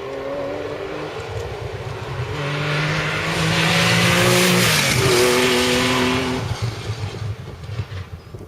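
Historic rally car approaching flat out and passing close by, its engine running at high revs. The engine note and the rush of noise are loudest about four to five seconds in, where the pitch changes as the car goes past, and then the sound fades away.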